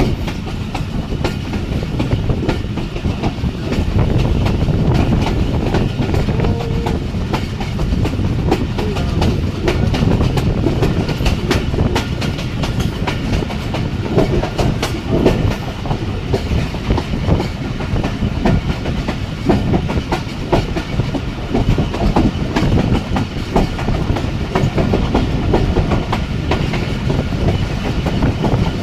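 Jaffar Express passenger train running at speed, heard from on board: a steady low rumble with wheels clicking over rail joints throughout.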